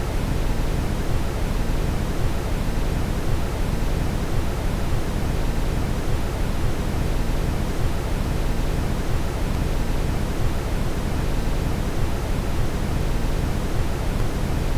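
Steady brown noise: an even, deep hiss with most of its weight in the low end and no change over time.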